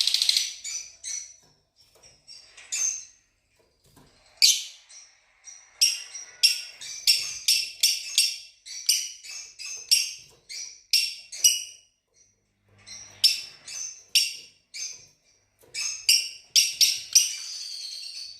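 Fischer's lovebirds chirping: many short, shrill calls in quick runs, broken by brief pauses.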